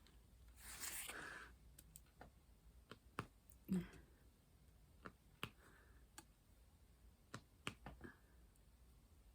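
Faint, scattered clicks and taps of a diamond painting pen setting resin drills onto the canvas, with a short soft rustle about a second in and one louder tap near four seconds.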